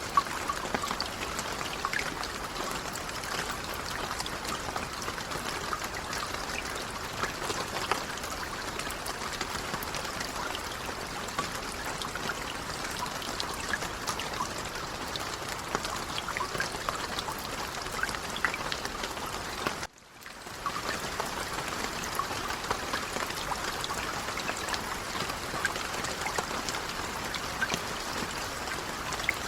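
Light rain falling, a steady patter of many small drops. About two-thirds of the way through it cuts out for a moment and fades back in.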